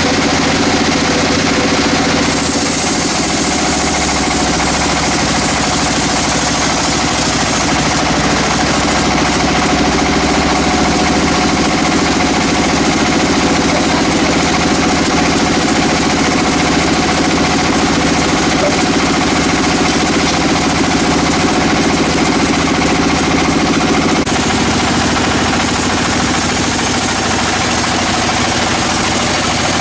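Sawmill saw running and sawing a dry teak log: a loud, steady mechanical noise with a constant hum underneath. The sound shifts abruptly about two, eight and twenty-four seconds in.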